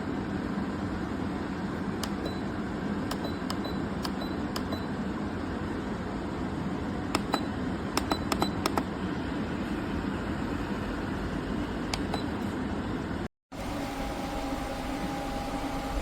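KGOGO 7000 BTU portable air conditioner running, its fan making a steady, noisy whoosh and hum. Sharp clicks come in small clusters, some with a brief high beep. After a short break near the end, the running noise returns with a steady whine in it.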